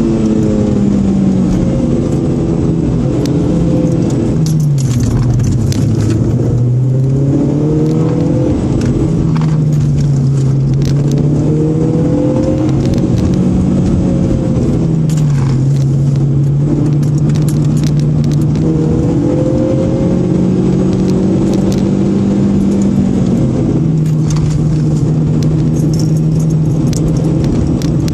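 A supercharged Honda engine heard from inside the car while it is driven hard down a winding road. The engine pitch rises as the car accelerates and drops as it slows, several times over, with a deep dip about five seconds in. Light rattling clicks sound now and then throughout.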